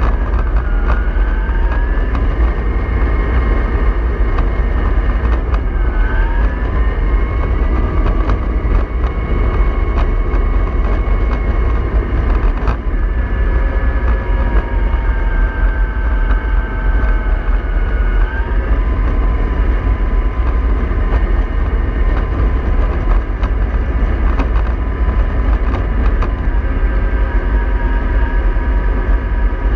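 MAN 24.310 bus running under way: a steady low engine rumble with a drivetrain whine that drops and climbs back up several times.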